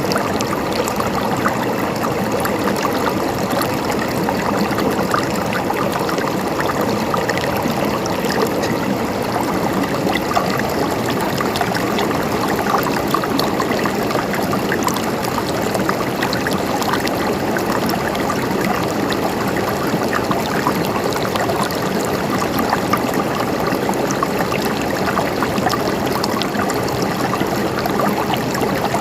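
River water flowing and splashing over stones, a steady even rush with many small gurgles and trickles.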